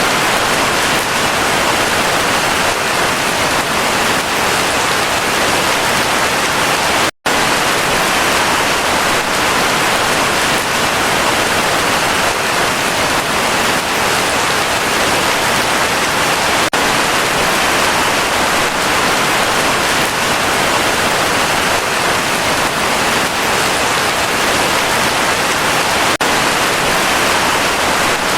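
Heavy rain falling steadily, an even hiss, broken by a split-second gap of silence about a quarter of the way in.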